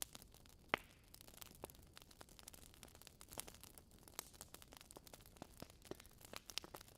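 Wood logs burning in a fireplace, crackling with many irregular sharp pops and snaps over a faint low hiss. The loudest pop comes about three-quarters of a second in.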